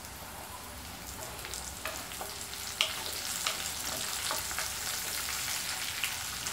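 Curry leaves, chopped ginger and garlic sizzling in hot oil in a metal kadai, stirred with a wooden spatula that clicks against the pan a few times. The sizzling gets a little louder about two seconds in.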